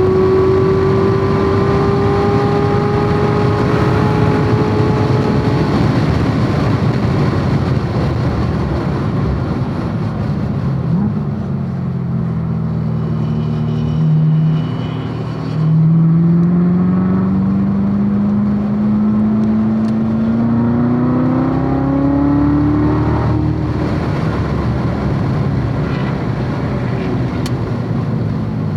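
C7 Corvette Z06's supercharged 6.2-litre V8 running hard on track: the engine note climbs and falls with the revs, dips briefly about halfway through as the throttle comes off, then climbs through a long pull before an upshift near the end.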